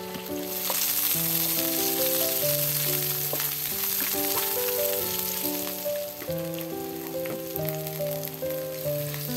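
Sliced leeks and onion sizzling in hot oil in a frying pan as a wooden spatula stirs them; the sizzle comes up about half a second in. Background music with a light, steady melody plays under it.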